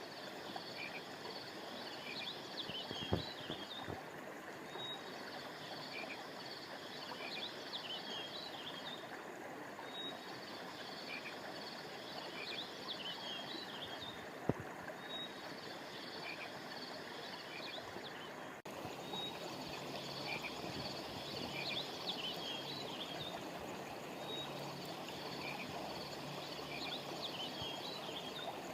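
Steady rush of a flowing stream under a high chorus of calling animals, most likely frogs, which comes in bouts of about four seconds with short breaks between them. Two sharp clicks stand out, one about three seconds in and one about halfway through.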